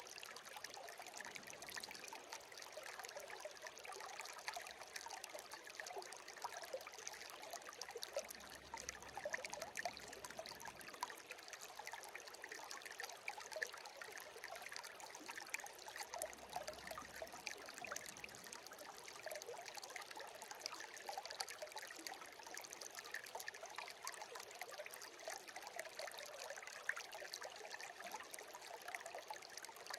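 Small babbling stream trickling steadily, with many small splashes and drips.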